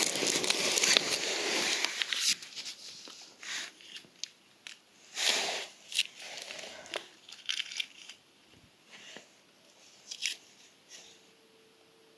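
Dry twigs and bark being snapped and crumpled by hand for kindling: irregular crunches and cracks, with one longer rustle about five seconds in.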